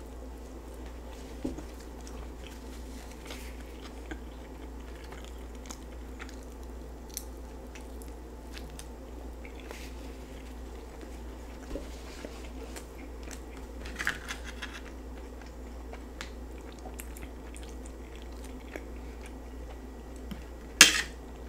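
Close-miked biting and chewing of a chicken quesadilla: soft, faint mouth and chewing sounds over a steady low hum, with a brief crunchier burst about two-thirds of the way through and a sharp click near the end.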